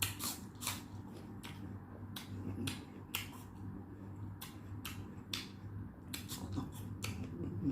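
Close-miked eating: irregular sharp, crisp crunches of chewing, roughly one or two a second, over a steady low hum.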